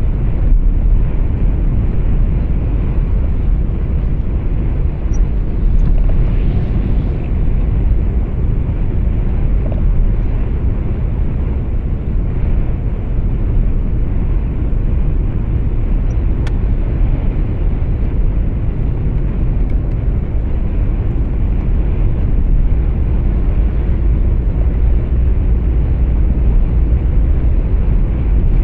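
Steady low rumble of road and engine noise heard inside a moving truck's cab.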